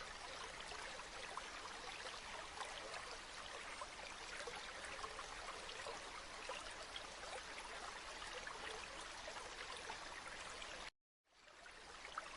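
River water flowing in a steady rush with fine trickling detail. About eleven seconds in it cuts out suddenly for a moment and fades back up, as the water recording loops.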